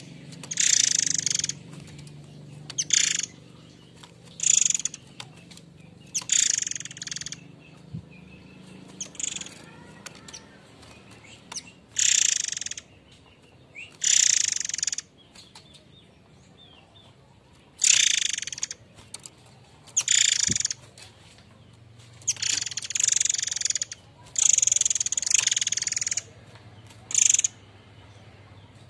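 Murai air mancur giving its harsh, rough calls: short hissing screeches repeated every one to two seconds, some run together in pairs.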